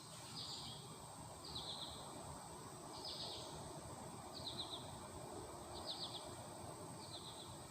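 Faint, short high chirps, each a quick run of pulses, repeating about every second and a half, over a faint steady hiss.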